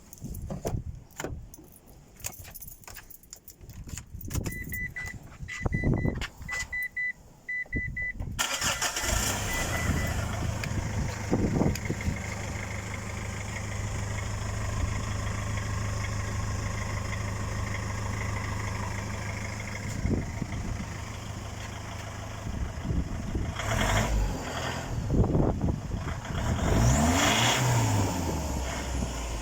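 Mitsubishi L200 pickup being started through a newly fitted 4-inch side-exit exhaust. A few clicks and short repeating beeps come first. The engine catches about eight seconds in and idles steadily, then is revved a couple of times near the end.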